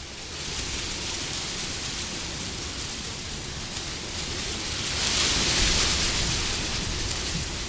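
Wind blowing in a steady rush, with a gust that swells about five seconds in and then eases off.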